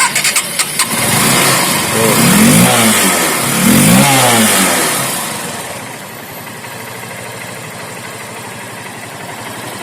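Honda Unicorn 150's single-cylinder engine, just started, blipped twice on the throttle and then settling to a steady idle. It runs smoothly without the 'bhurbur' sputter, now that the torn carburettor slide has been replaced.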